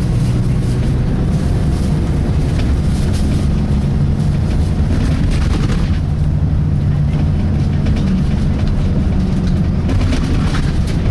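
Volvo B10BLE single-deck bus with a Voith automatic gearbox driving along, its diesel engine and drivetrain heard from inside the saloon. Steady engine drone with frequent knocks and rattles, and a change in the engine note about halfway through.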